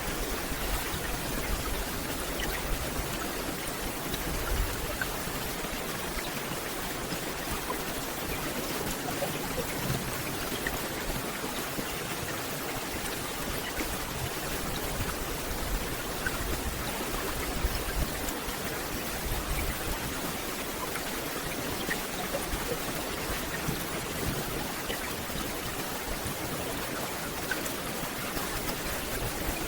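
Steady rain falling on forest leaves: an even hiss with scattered individual drop ticks.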